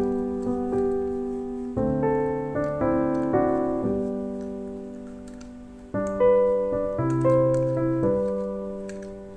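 Background music on solo piano: slow, gentle chords, each struck and left to ring and fade before the next.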